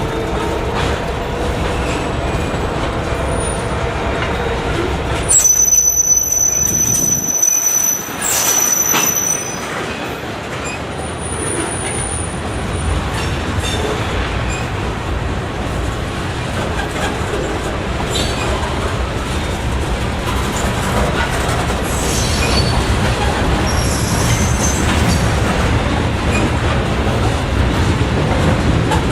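A train rolling past with steady rumbling wheel-on-rail noise. High-pitched wheel squeal rings out for a few seconds, from about five to nine seconds in.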